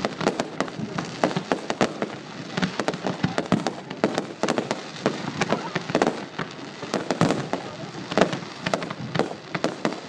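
Aerial fireworks going off: many sharp bangs and crackles in quick succession, several a second, with no pause.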